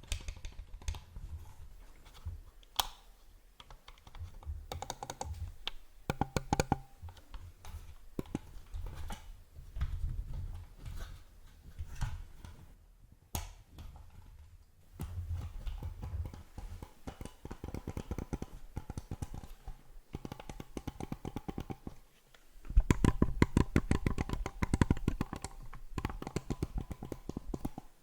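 Computer mouse clicking close to the microphone: sharp clicks, some single and some in rapid runs, with the densest run near the end.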